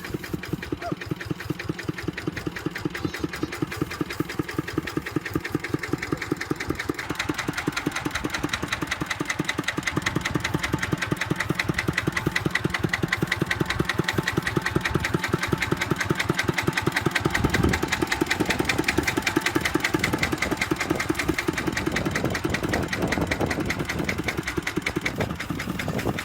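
Kubota tractor engine running with a steady, fast chugging beat, growing louder about a quarter of the way in.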